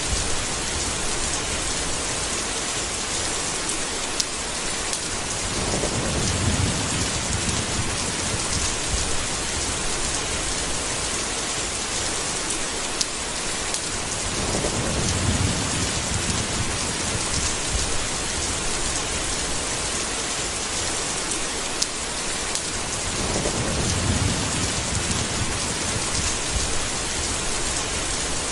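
Steady heavy rain with low thunder rumbles swelling up three times, about nine seconds apart.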